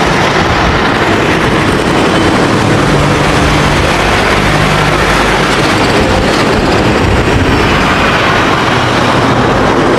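Heavy vehicle rumbling steadily: a loud, dense rushing noise over a low rumble.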